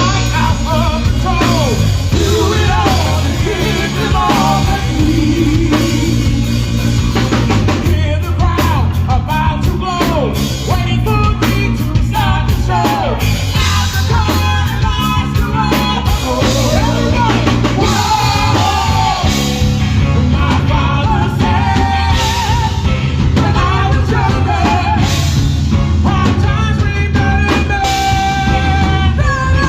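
Live rock band playing: a singer, partly yelling, over a drum kit and low bass notes.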